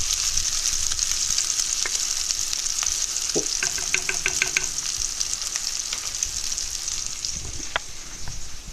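Steady sizzle of food frying on the stove, with a wooden spoon stirring a pot of tomato sauce and a few light clicks.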